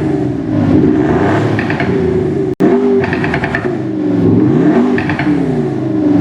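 Kia K5 diesel's active exhaust sound generator playing a synthetic exhaust note as the engine is revved repeatedly. The pitch rises and falls several times, with a brief break about two and a half seconds in.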